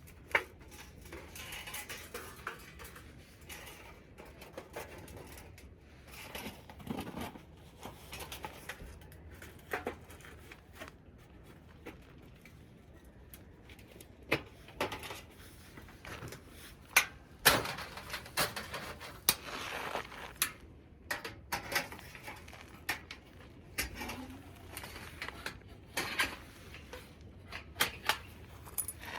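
Irregular clicks, clinks and knocks of objects being handled, with a few sharper knocks in the second half.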